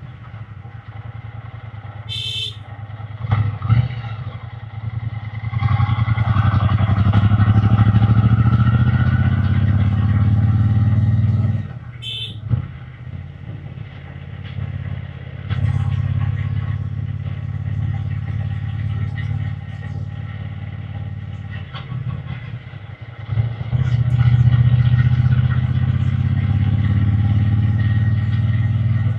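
Triumph Bonneville T120 parallel-twin engine and exhaust heard from the rider's seat, pulling under throttle from about six seconds in and again near the end, and running lighter in between as the throttle eases off. Two short high beeps sound, about two and twelve seconds in.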